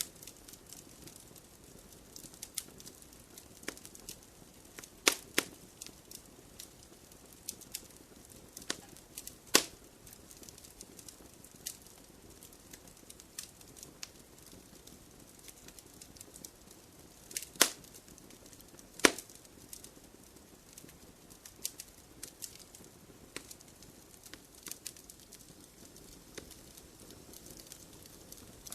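Wood fire crackling in a fireplace: scattered sharp pops and snaps over a faint steady background, with the loudest pops about five, nine and a half, seventeen and a half and nineteen seconds in.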